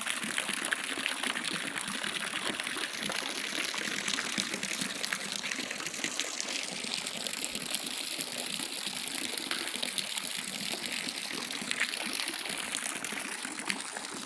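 Water gushing steadily into a swimming pool as it is being filled.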